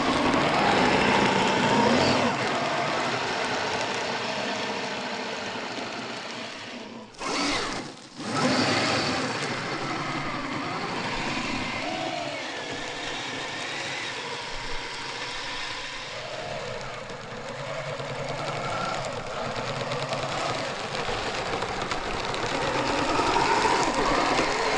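Kyosho Blizzard RC snow vehicle driving through snow: its electric motor and drivetrain whine, rising and falling in pitch with the throttle over a steady rushing noise. The sound drops out briefly about seven seconds in.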